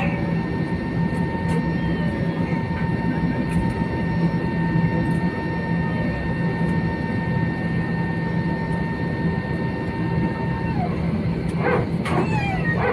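Airliner cabin noise: a steady drone with a low hum and a thin high whine, the whine dropping away about eleven seconds in. Faint voices come in near the end.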